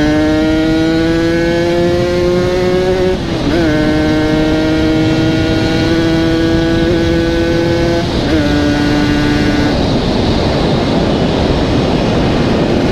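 Yamaha RX-King 135cc two-stroke single with an aftermarket exhaust pulling under throttle on the road. Its pitch climbs slowly and dips briefly twice, then fades under a rushing noise and rises again near the end. The rider says the carburettor is running very lean.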